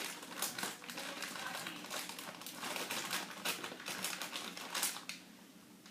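Small plastic Skittles packet crinkling as it is handled, a fast irregular run of crackles that stops about five seconds in.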